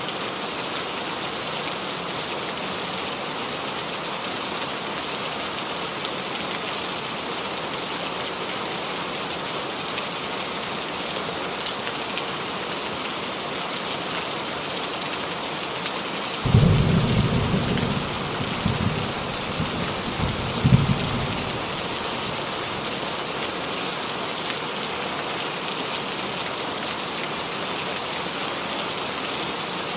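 Steady rain falling on a roof, with a roll of thunder breaking in suddenly a bit past the middle and rumbling in several pulses for about five seconds.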